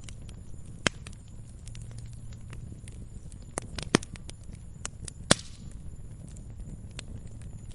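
Wood fire crackling in a fireplace: scattered small ticks and a few sharp pops over a low steady rumble of the flames. The loudest pops come about a second in, around four seconds in and just past five seconds.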